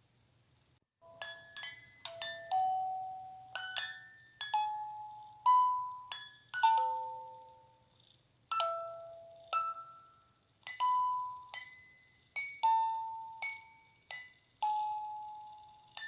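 A slow lullaby melody of bell-like struck notes, each ringing out and fading, starting about a second in.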